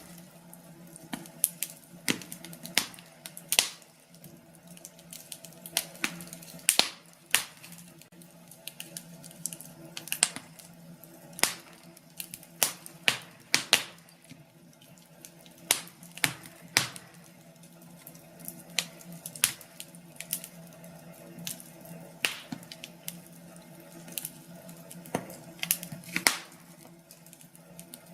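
Wood fire in a fireplace crackling: irregular sharp pops and snaps, at times several in quick succession, over a faint steady low hum.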